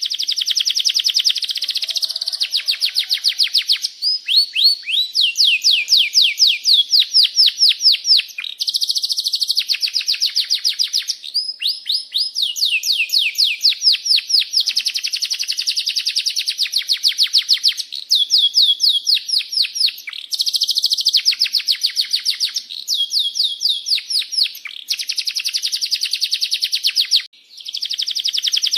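Domestic canary singing a long rolling song. It runs as rapid trills of repeated notes in phrases of a few seconds, some phrases built of fast downward-sweeping chirps, with a brief pause near the end.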